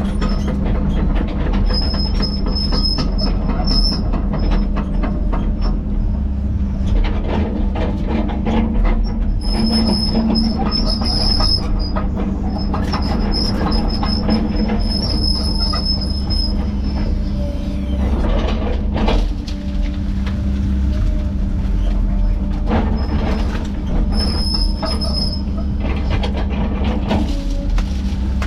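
Heavy tracked machinery running steadily under a diesel drone, with a high squeal that comes and goes several times.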